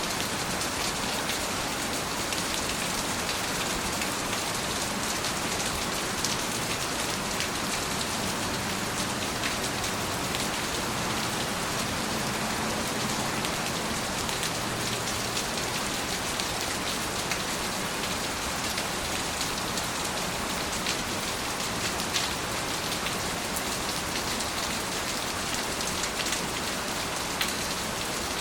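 Steady rain falling, a dense even hiss with many small drops ticking on a surface.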